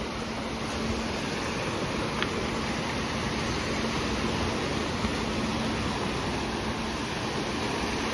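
Sea surf washing onto the shore: a steady, even rush of water noise, with wind.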